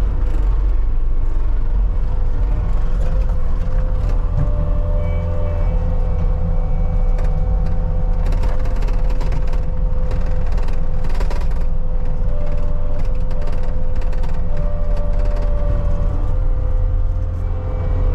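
CAT 279D compact track loader's diesel running under load while pushing and packing dirt: a steady low drone with a constant whine over it and scattered metallic clanks from the tracks and bucket.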